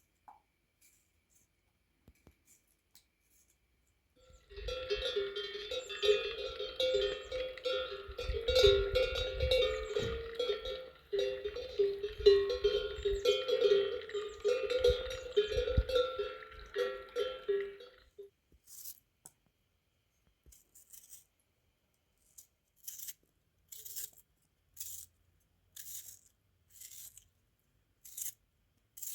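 Metallic clanking and ringing for about thirteen seconds, then a run of short, crisp strokes about once a second near the end.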